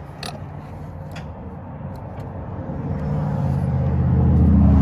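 A motor vehicle's engine rumble that grows steadily louder over the second half, after a couple of sharp clicks early on.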